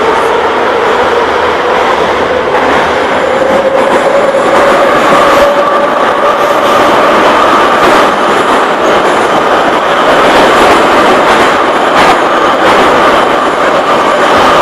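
Moscow Metro 81-717/714 'Nomernoy' train running through the tunnel, heard from inside the car: loud running noise with a traction-motor whine that rises slowly in pitch as the train gathers speed and then holds steady. A couple of sharp clicks from the wheels over rail joints come about halfway and near the end.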